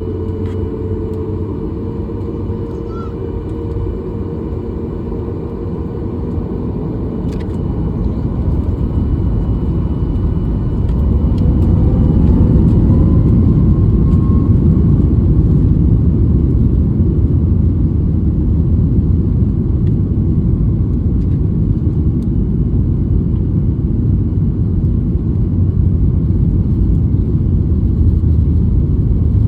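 Inside the cabin of a Boeing 737 MAX 8: its CFM LEAP-1B turbofan engines spool up to takeoff thrust. A rising whine about ten seconds in goes with the rumble growing louder, which then holds steady and loud through the takeoff roll.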